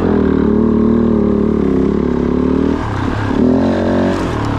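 Kove 450 Rally's single-cylinder four-stroke engine running steadily, its note changing pitch about three seconds in.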